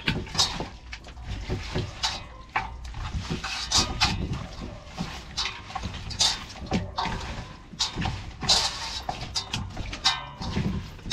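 Hands rubbing and mixing seasoning and browning into raw chicken pieces: irregular wet squelching with sharp, quick strokes.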